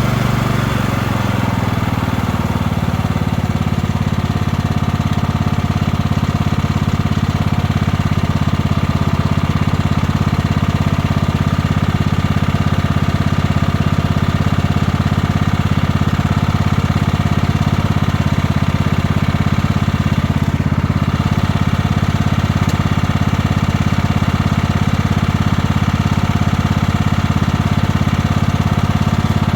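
1998 Kohler Command 16 hp riding lawn mower engine running steadily; its speed shifts during the first couple of seconds, then holds even.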